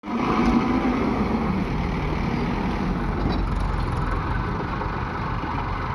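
Heavy diesel engines of a backhoe loader and tractors running steadily.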